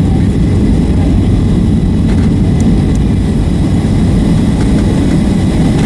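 Steady, loud low rumble inside the passenger cabin of a Boeing 757-300 during its landing at the end of the flight, with a few faint clicks.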